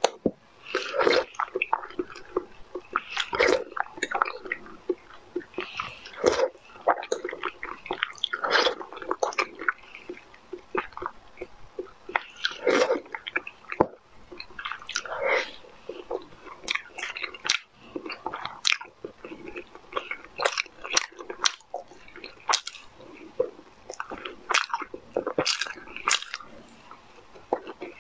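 A person biting and chewing food close to the microphone, with irregular sharp mouth clicks and crunches, sometimes several a second.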